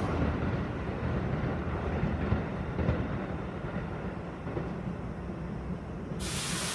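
Keikyu 1000 series electric train pulling out of the station, a low rumble of wheels and running gear that slowly fades as the cars go by. A hiss starts suddenly about six seconds in.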